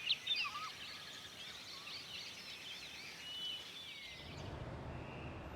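Several small birds chirping, with many quick overlapping calls that stop about four seconds in and give way to a steady low rumble.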